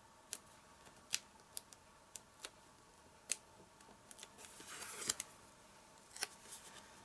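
Scattered light clicks and taps from hands working with card and small adhesive pieces, with a short papery rustle about five seconds in.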